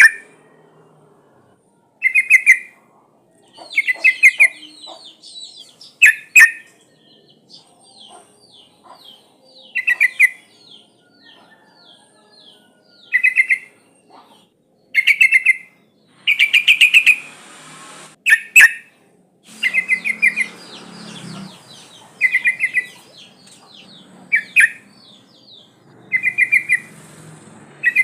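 Yellow-vented bulbul (trucukan) calling: short bubbly bursts of quick notes repeated about every two seconds, with softer high chirping between them. It is a female's call to a male, used as a lure call.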